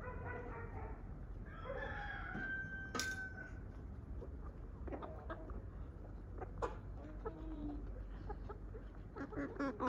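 Domestic chickens clucking with short repeated calls, a rooster crowing, and a few sharp clicks in between.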